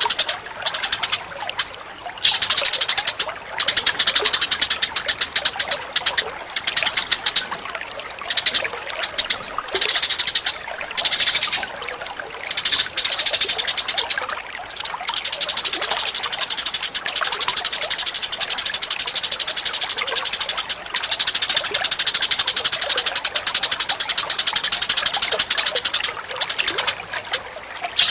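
Bird-tutor recording of songbird calls: loud, high-pitched rapid chattering, many notes a second. It comes in bursts broken by short pauses, then runs on unbroken for about ten seconds from around the middle.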